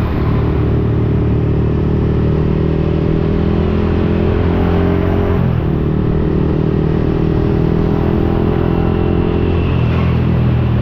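Yamaha XSR155's single-cylinder engine running through an aftermarket Akrapovic-replica exhaust while riding. The note holds steady, drops in pitch about five seconds in, then picks back up.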